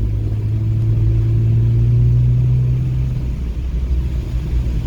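Car engine heard from inside the cabin, pulling under acceleration with its note rising slowly, then dropping away about three and a half seconds in as the throttle comes off.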